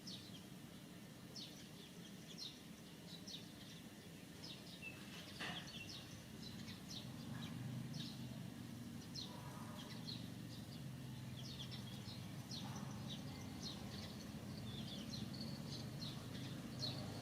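Outdoor ambience of birds chirping: many short, high chirps scattered throughout, over a steady low hum.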